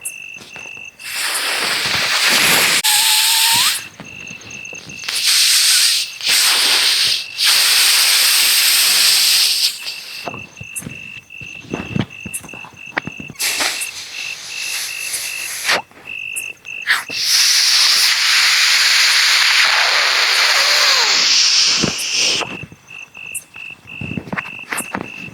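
Four long bursts of loud hissing over scattered crackling clicks, with crickets chirping steadily in the quieter gaps.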